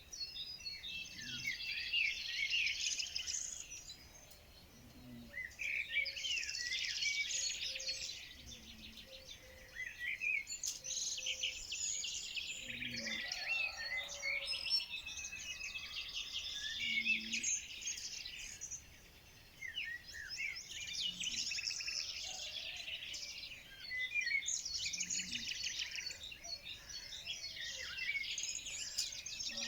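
Several songbirds singing and chirping together in overlapping rapid trills and chirps, with short lulls every so often.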